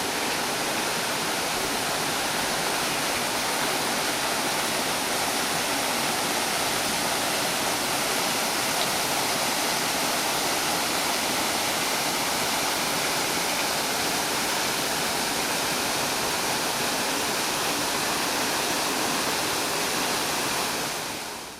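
Steady, even rush of falling water, like a waterfall or a fast stream, with no rhythm or change.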